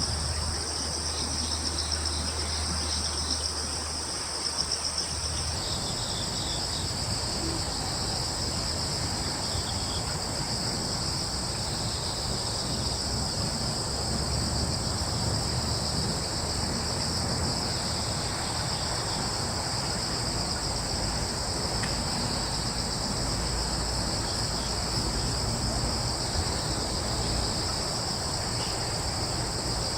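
Crickets chirring in a continuous, steady chorus of high trills, with a low steady rumble underneath.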